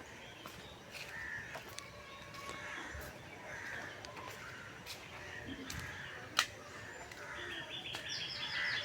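Birds calling: a call repeated about once a second, and near the end a small bird's rapid chirping trill. A sharp click sounds about six and a half seconds in.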